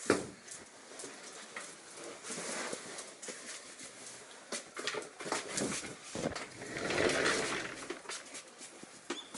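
Shiba Inu crunching and chewing chicken wing tips, the small bones cracking in irregular sharp crackles. A longer, louder stretch of chewing noise comes about seven seconds in.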